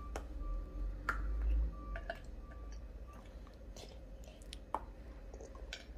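Children chewing chocolate, with faint scattered mouth clicks and smacks over a low rumble that fades after the first second and a half.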